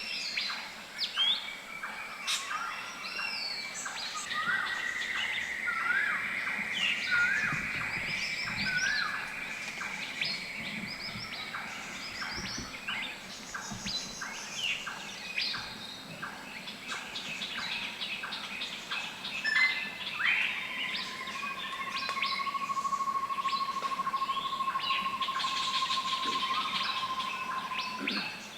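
Several wild birds calling together in forest: quick chirps and short whistles throughout, a long high trill a few seconds in, and a long, lower, steady trill through most of the second half.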